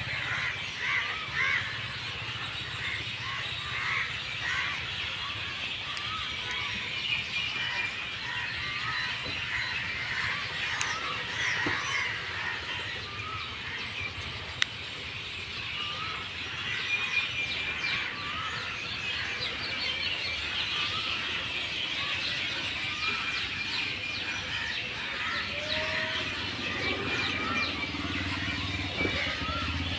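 A flock of birds chirping and calling together, a dense chorus of short overlapping chirps, over a steady low background hum.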